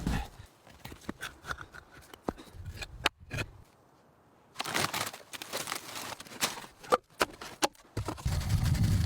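Rustling and handling noises broken by sharp clicks and knocks, with a near-silent pause about four seconds in and a low rumble near the end.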